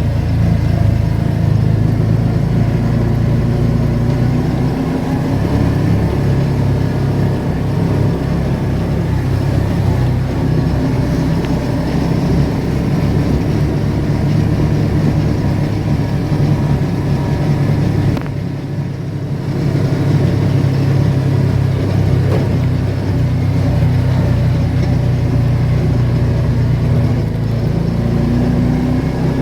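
A car being driven: steady engine and road noise, a continuous low drone, with a short dip in level about two-thirds of the way through.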